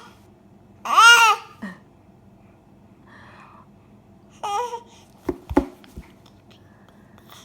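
A baby's high-pitched vocal noise, one arched squeal-like babble about a second in and a shorter one around four and a half seconds in. A few short knocks follow around five and a half seconds.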